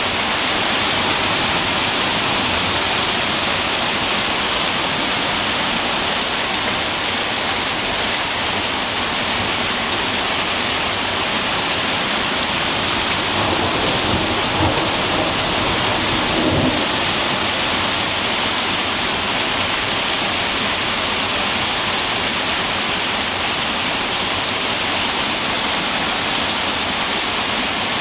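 Hail pelting down in a heavy storm: a dense, steady hiss of hailstones striking surfaces, with a brief low rumble about halfway through.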